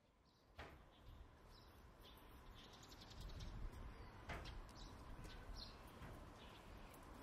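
Faint outdoor ambience: a low rumble with scattered short, high bird chirps and two faint knocks, the first about half a second in and the second past the midpoint.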